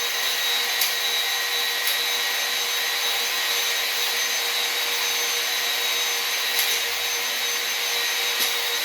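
Electric drill spinning a cylinder hone in a bore of a Ford 289 V8 block, running at a steady speed with a steady hiss of the stones on the cylinder wall and a few faint ticks.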